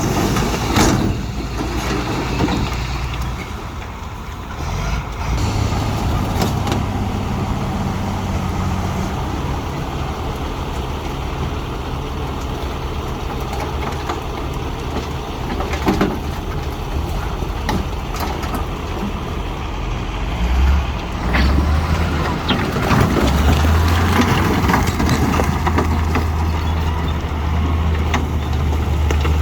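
Diesel engines of heavy earthmoving machinery running under load, their low drone stepping up twice, the second time louder, with a few sharp clanks of metal or rock.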